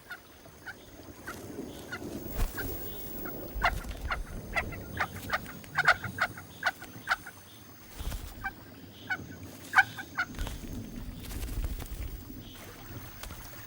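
Picathartes chicks begging at the nest: short, sharp calls in irregular runs, over a faint low rumble.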